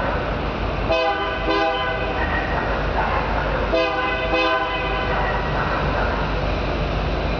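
Union Pacific freight locomotive air horn sounding short blasts in two pairs, about a second in and again about four seconds in, over the steady rumble of the passing train. The horn is a warning to track maintenance workers beside the line.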